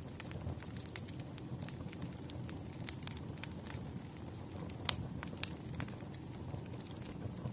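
Burning firewood crackling over a steady low rumble, with scattered sharp pops and one louder pop about five seconds in.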